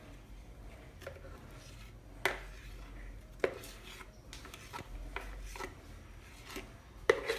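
Kitchenware handled: utensils and dishes clinking and scraping, with a few sharp knocks, the loudest about two seconds in, three and a half seconds in and near the end.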